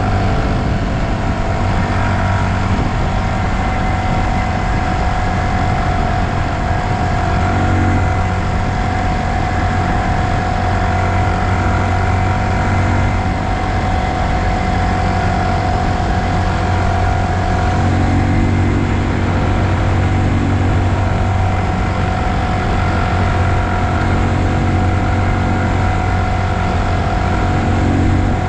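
2020 Honda Super Cub's single-cylinder engine running steadily while riding along at an even pace, its pitch holding level with no revving.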